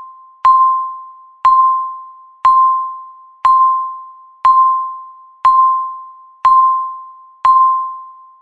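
Countdown timer beep: a single clear electronic tone struck once a second and fading quickly, eight times, each beep marking one passing second of the countdown.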